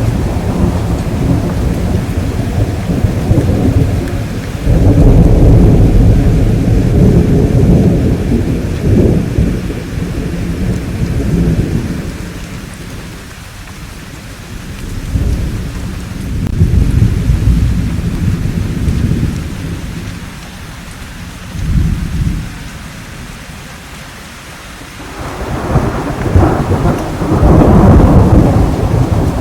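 Thunderstorm: rolling thunder rumbling in several long waves that swell and fade, over steady rainfall. The rumble eases off for a while midway, then swells again loudly near the end.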